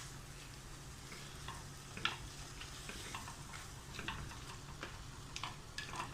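Chicken pieces frying gently in masala and oil in a cooking pot, a faint sizzle, while a spoon stirs them, scraping and tapping against the pot now and then.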